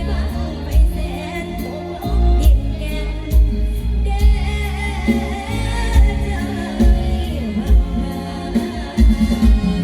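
Live band music with a singer over a heavy, steady bass drum beat.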